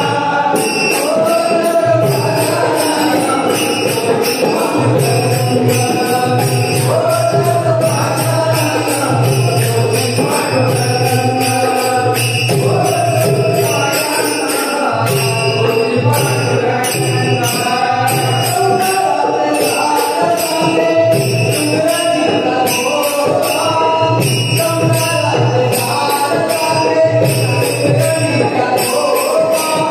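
Marathi devotional bhajan: a sung melody over a sustained low accompaniment, with small hand cymbals jingling in a steady, even beat.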